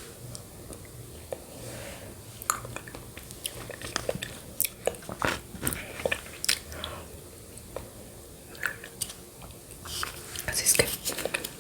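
Close-miked eating sounds of yogurt with shredded coconut: irregular wet mouth clicks and smacks of chewing, busier near the end.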